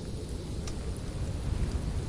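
Wood fire burning in a fireplace: a steady low rumble of flames with a few faint crackles, one sharper pop about a third of the way in.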